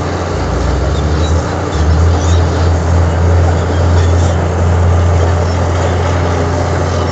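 Heavy diesel earthmoving machinery running steadily with a deep, loud engine hum; the engine note shifts briefly in the first couple of seconds, then holds.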